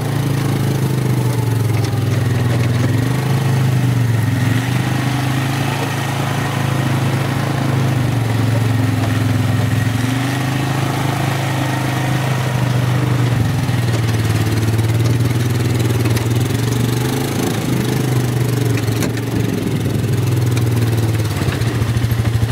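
Vehicle engine running at low speed, its pitch rising and falling gently as it drives.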